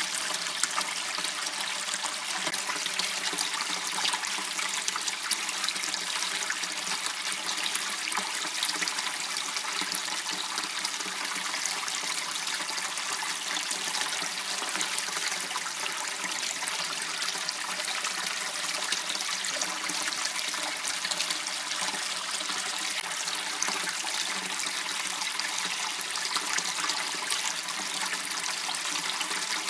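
Water running steadily in a small canal: an even, unbroken rush.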